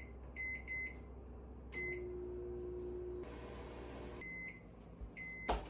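Microwave oven control panel beeping several times as buttons are pressed, then the oven running with a steady hum for about two seconds, more beeps, and a sharp click near the end.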